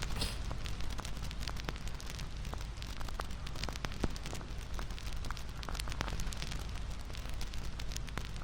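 Crackling bonfire: a steady low rush with frequent sharp pops and snaps. The loudest snap comes about four seconds in.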